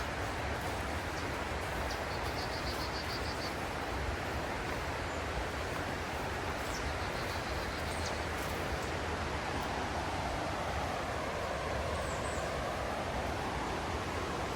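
Mountain river rushing steadily, an even wash of water noise with a low rumble beneath it.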